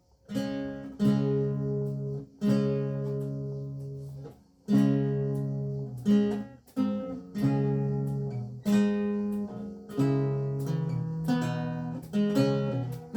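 Renaissance lute with gut strings being played, starting about a quarter second in. Plucked chords ring on and decay, coming in quicker succession toward the end.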